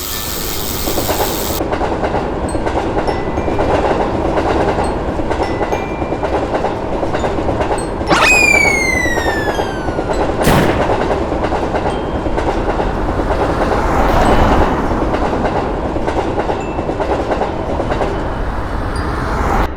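Train running with a steady rumble and the clickety-clack of its wheels. About eight seconds in, a horn-like tone slides downward in pitch over about two seconds. About ten and a half seconds in there is one sharp bang.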